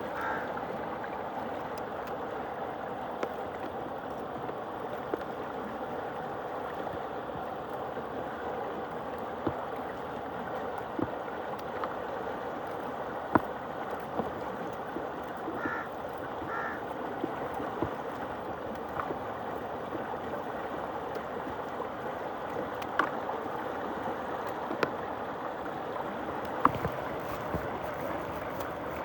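Water swirling and gurgling steadily in a tube with crushed stones, broken by occasional sharp clicks.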